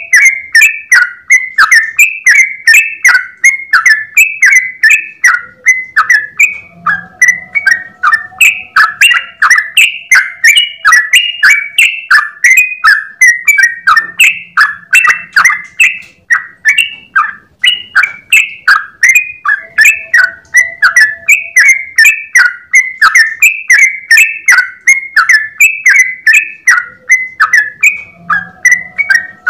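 Yellow-vented bulbul (trucukan) singing a long, unbroken run of quick chirping notes, about three to four a second, in its rapid 'ropel' song.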